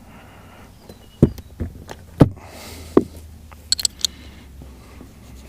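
Clicks and knocks of the parts of a Mercury boat remote control being handled and fitted back together: a few sharp strokes about a second apart, then a quick run of small, high clicks about four seconds in, over a faint low hum.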